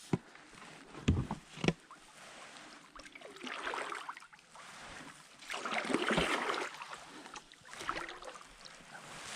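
A canoe being paddled: a paddle swishing through the water in strokes about every two seconds, with a few sharp knocks of the paddle against the hull.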